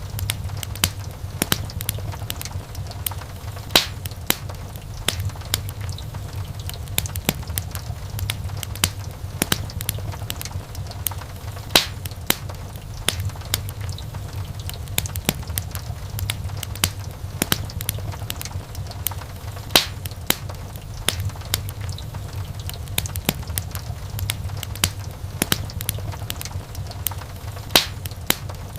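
Wood fire crackling: a dense run of irregular snaps and pops from burning logs, a few sharper pops standing out, over a steady low rumble.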